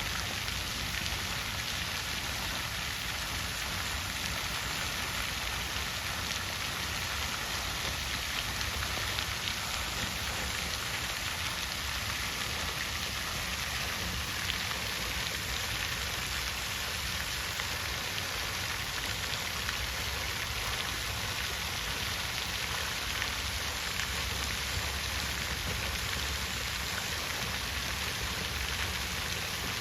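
Water fountain splashing, a steady hiss of falling water like rain on a surface, with a low rumble beneath.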